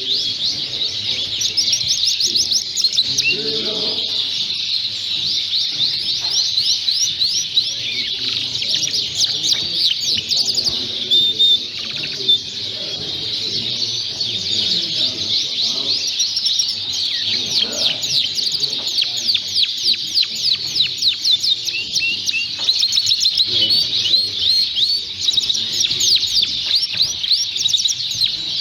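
Many Fife Fancy canaries singing and chirping at once, a dense, unbroken chorus of rapid high trills and chirps, over a low murmur of voices.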